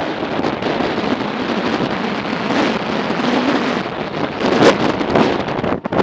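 Strong wind buffeting the microphone of a moving motorcycle, as a loud steady rush that swells in gusts about four and a half seconds in.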